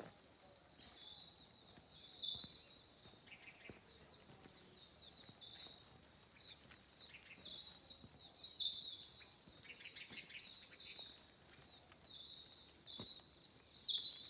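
Birds chirping and singing in quick, high falling notes, with several birds overlapping in louder spells about two seconds in, around eight to nine seconds, and near the end, over a faint outdoor background.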